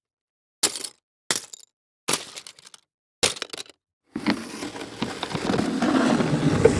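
Sound-effect impacts with breaking, cracking tails: four short separate hits about a second apart, then about four seconds in a longer, denser crunching crash that grows louder.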